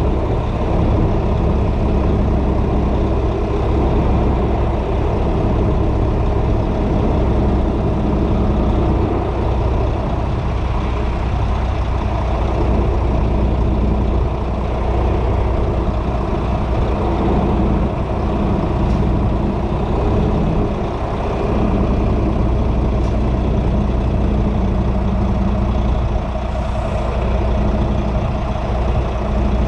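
Semi truck's diesel engine running steadily with a constant low hum.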